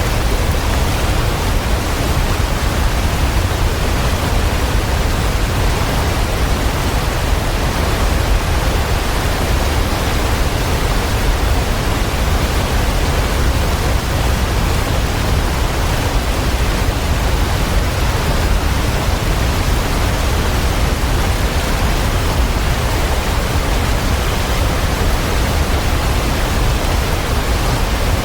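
Waterfall: a steady, dense rush of falling water with a deep low rumble, unchanging throughout.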